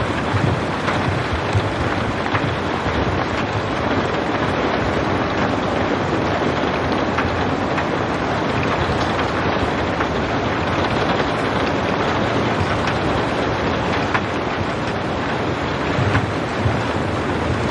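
Steady heavy rain, a dense even hiss with scattered drop ticks and no thunder.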